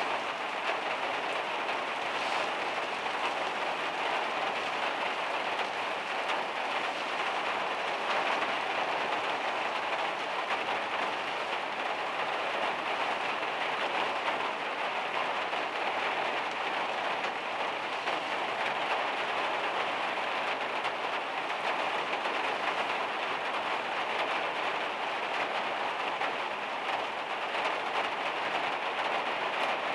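Heavy rain drumming steadily on the van's metal roof.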